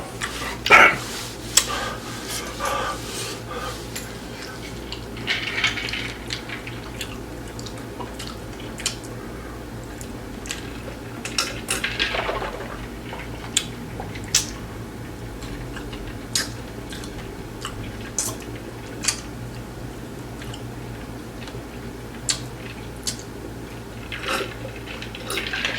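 Chewing hard taco shells close to the microphone: scattered sharp crunches and clicks over a steady low hum.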